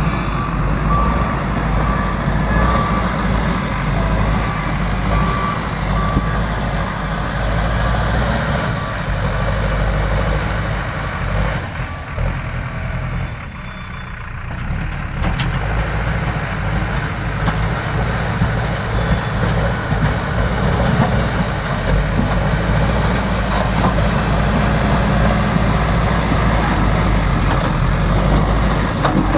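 JCB backhoe loader's diesel engine running steadily under work. A reversing alarm beeps repeatedly for the first several seconds, and the engine eases off briefly around the middle before picking up again.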